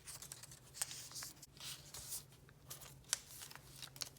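Paper strips being folded back and forth by hand: irregular rustling and crinkling with sharp creasing snaps, over a faint steady low hum.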